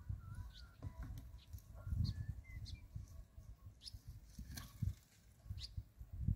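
Birds chirping and whistling in short calls, over an irregular low rumble on the microphone.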